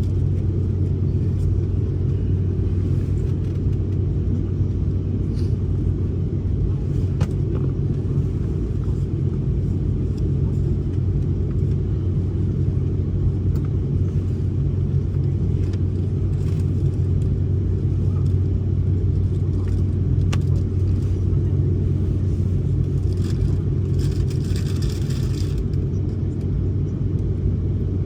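Steady low rumble and hum inside an airliner waiting on the ground before takeoff, with a brief hiss of air near the end.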